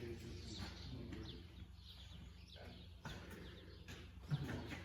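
Small birds chirping: short high chirps a few times a second over a steady low hum.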